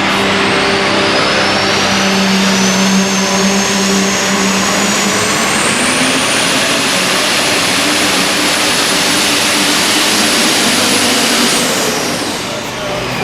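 Super stock diesel pulling truck at full throttle, engine and turbocharger whine loud and steady; the high whine climbs over the first several seconds, holds, then falls away near the end as the engine backs off.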